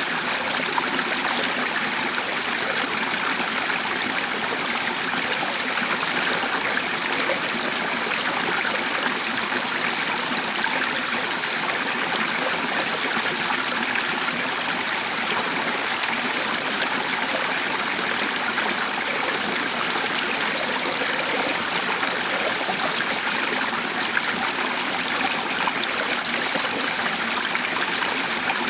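Running water of a small stream, a steady even rush and trickle with no change.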